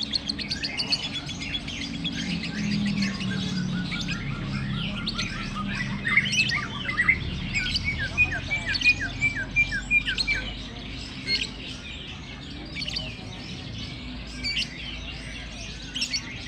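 Lovebirds chirping: rapid, high-pitched chirps, densest and loudest in the middle, thinning to scattered chirps near the end.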